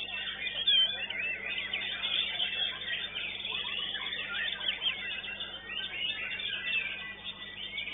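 White-rumped shama (murai batu) singing a dense, unbroken run of quick high whistles and trills, with other caged songbirds singing over it at once.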